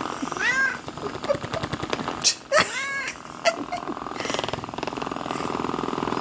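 A cat meowing: two drawn-out calls that rise and fall in pitch, about two seconds apart, with a couple of sharp clicks just before the second.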